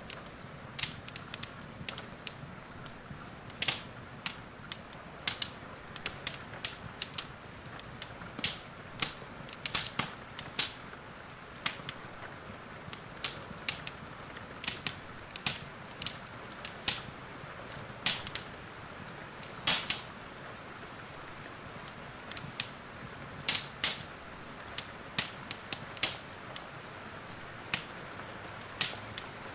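Wood fire in a fireplace crackling, with sharp pops at irregular intervals over a steady soft hiss.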